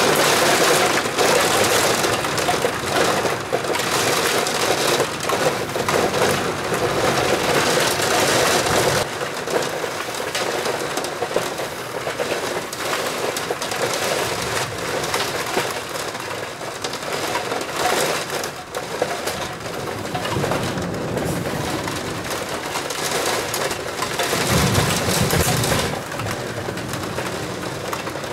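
Heavy rain pouring down in a thunderstorm, a steady hiss that is loudest for the first nine seconds or so and then eases slightly. A brief low rumble comes in near the end.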